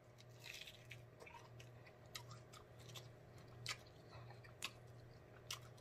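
Faint chewing of a mouthful of deep-fried king crab knuckle meat: soft scattered mouth clicks and smacks, about one a second, over a low steady hum.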